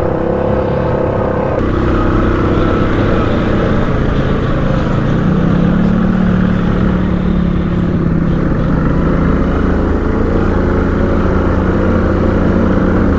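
ATV engine running as the machine rides along a trail, its note rising and falling with the throttle.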